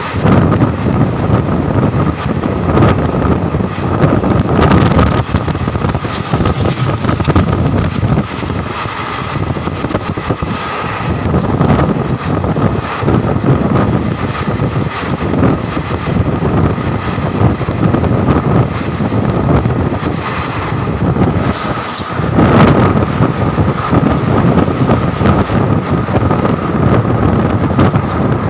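Passenger train running along the track, heard from on board: a continuous rumble with irregular rattling and knocking from the wheels and carriage, and a faint steady whine underneath. A brief louder rush comes about three-quarters of the way through.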